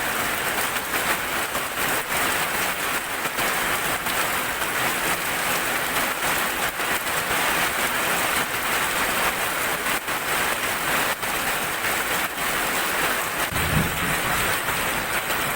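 Heavy rain falling steadily, a dense hiss of drops striking a surface. Near the end comes a short low rumble of thunder.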